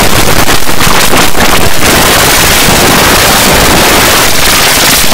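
Loud, harsh rushing noise like static or strong wind, pulsing roughly for the first two seconds and then smooth and even.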